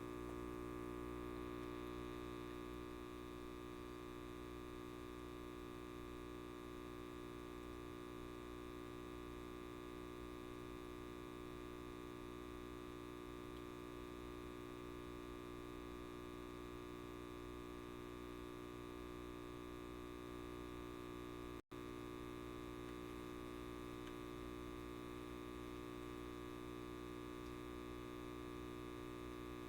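Light bulb buzzing with a steady electrical hum made of many even tones. It cuts out for an instant about two-thirds of the way through.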